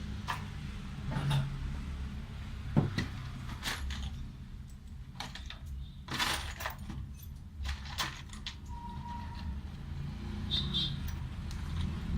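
Scattered metallic clicks, clinks and knocks of small parts and tools being handled during a drill repair, the sharpest knock about three seconds in, over a steady low hum.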